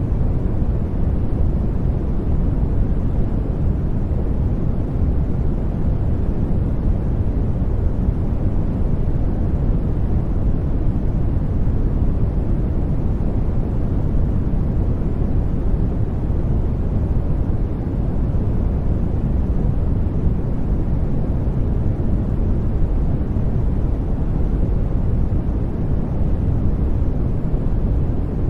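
Steady sleep noise, even and unbroken, with most of its weight in the low end, so it sounds deep rather than hissy.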